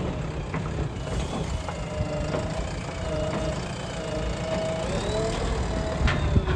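Heavy diesel engine of an earth-moving machine running, with a whine above it that rises and falls, and a couple of sharp knocks near the end.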